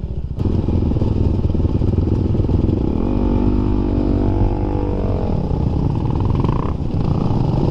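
Dirt bike engine running while riding, revving up about three seconds in, holding, then easing off, and revving up again near the end.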